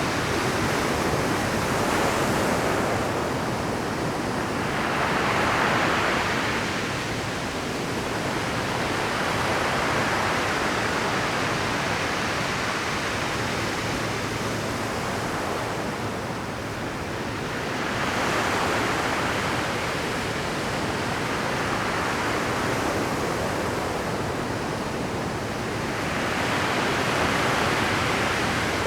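Pacific surf breaking over a rocky shore at high tide: a constant roar with waves crashing in swells every several seconds, the biggest about five seconds in, at eighteen seconds and near the end.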